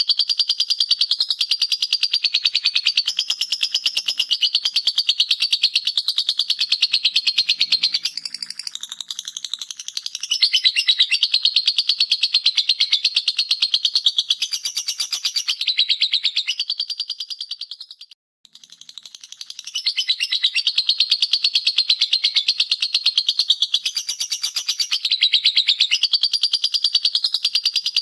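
Lovebird singing 'ngekek': a long, fast, unbroken run of high chattering notes. It softens briefly about eight seconds in and stops for a moment near the middle, then carries straight on.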